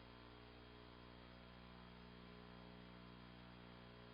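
Near silence: a faint, steady electrical hum with light hiss from the recording system.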